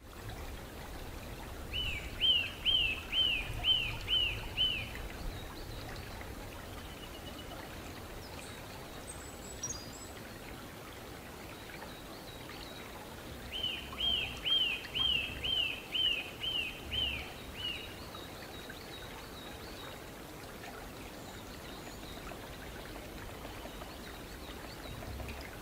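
Eurasian nuthatch singing: two runs of clear, repeated downslurred whistles, about seven notes and then about nine, roughly two a second, over a steady background hiss.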